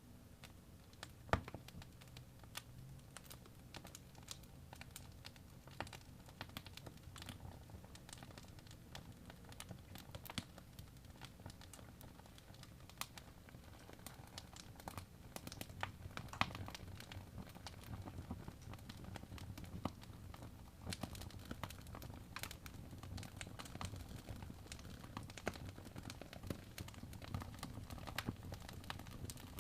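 Fire crackling in a fireplace: irregular sharp pops and snaps over a low steady rumble, with one louder pop about a second and a half in.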